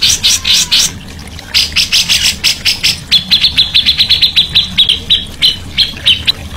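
Songbird calling in rapid strings of short, sharp notes. A quicker run of clipped notes at nearly one pitch starts about halfway in and slows near the end.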